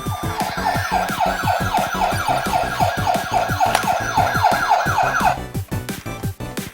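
Siren sound of fast falling wails, about four a second, over background music with a steady beat; the siren cuts off about five seconds in.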